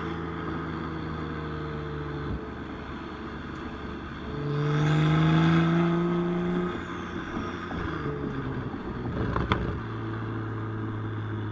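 Tuned BMW 135i's N55 turbocharged straight-six, heard from inside the cabin. It runs steadily, then about four seconds in it accelerates, getting louder and rising in pitch, and eases off a couple of seconds later. Near the end there is a single sharp crack, and the engine settles into a lower steady drone.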